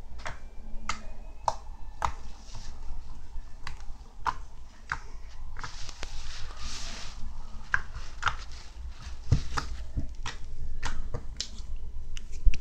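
Hotcake slime being pressed and stretched by hand, giving irregular sticky clicks and pops, with a short soft crackling rustle about halfway through.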